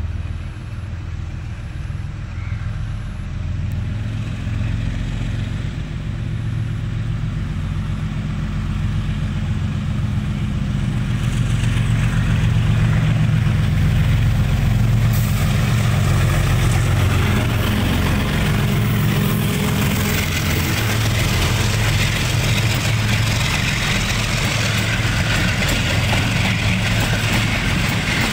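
Diesel locomotive engine throttling up: a deep, steady engine note that grows louder over the first dozen seconds, with a rushing noise joining about halfway through as the train gets under way.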